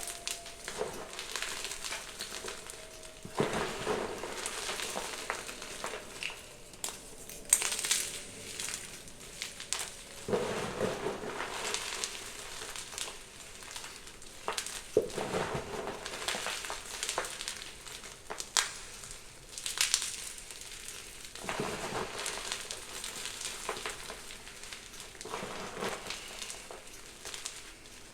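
Blocks of gym chalk being crushed by hand, crunching and crumbling in a series of squeezes a few seconds apart, with sharp snaps between them.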